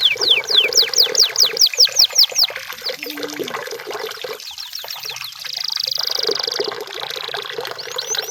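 Canary singing: a series of fast, repeated descending whistled notes, about five a second, for the first two and a half seconds, then softer notes and a rapid rolling trill held for about a second near the middle.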